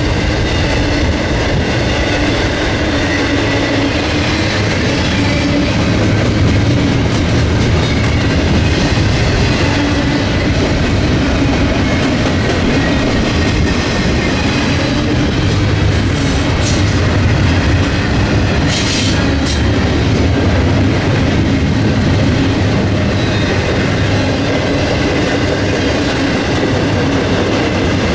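Freight train rolling past, a steady rumble of railcars on the rails with wheels clacking over the track. A brief high hiss comes about two-thirds of the way through.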